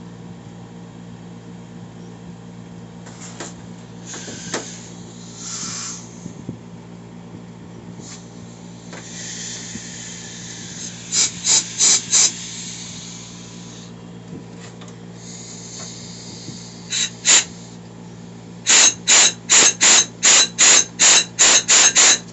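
Compressed-air blow gun blasting through TH350 transmission oil passages to check them for restriction. It gives several longer hisses, then short, sharp blasts, with a quick run of about eleven at roughly three a second near the end.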